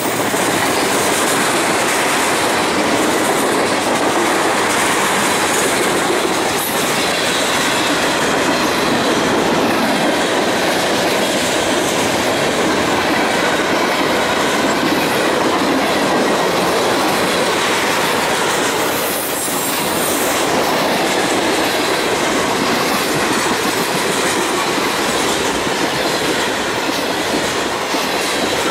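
Freight train of tank cars and hoppers rolling past close by: steel wheels clattering and rumbling steadily over the rails, with a thin high ring above the rumble and a brief drop in level about two-thirds of the way through.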